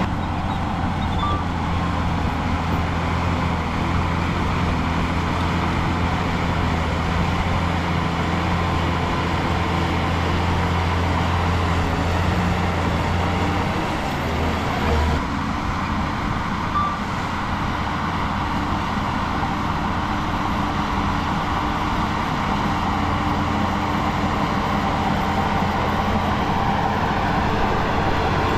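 Heavy diesel earthmoving machinery running steadily. A deep engine hum is strong for the first half and drops away about halfway through, leaving a more even mechanical rumble.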